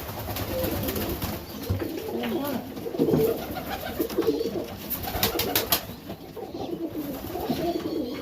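Serbian Highflyer pigeons cooing continuously in a loft, with a few sharp clicks and rustles about five seconds in.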